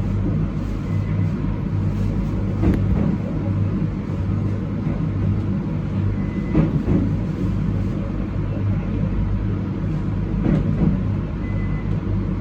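Passenger train running on the rails, heard from on board: a steady low hum and rumble, with a few short knocks from the wheels spaced a few seconds apart.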